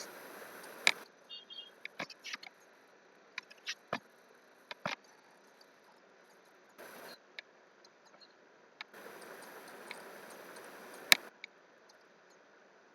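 Sparse, irregular clicks of computer keys and a mouse, the loudest about eleven seconds in, over faint hiss that cuts in and out.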